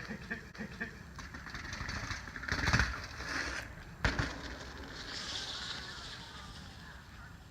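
Bicycle rolling over dirt jumps: tyre noise swells for a few seconds, then a single sharp thud about four seconds in, followed by a softer hiss of rolling.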